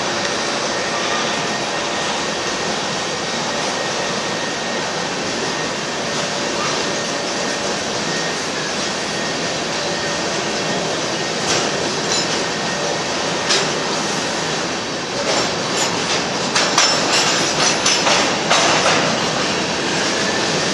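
Covered hopper cars of a Union Pacific freight train rolling past with steady wheel-on-rail noise. From about halfway a series of sharp clanks and rattles comes in, thickest and loudest near the end.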